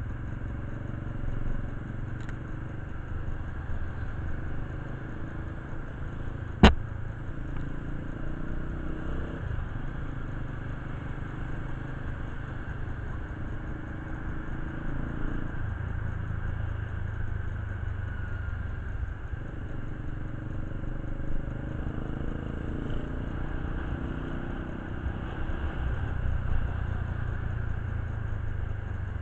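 Motorcycle engine running steadily, its note shifting every few seconds, with a clattering background and one sharp click about a quarter of the way in.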